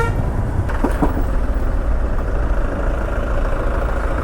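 Vehicle engines idling in a stalled traffic jam, a steady low rumble. A short horn toot at the very start.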